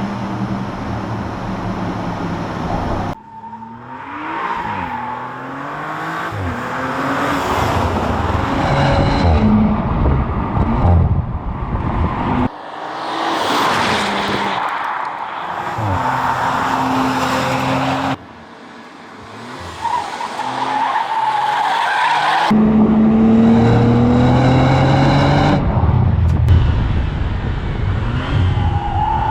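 High-performance sports car engine and exhaust accelerating hard through several short edited clips. Each clip has a rising engine note that drops back at each gear change.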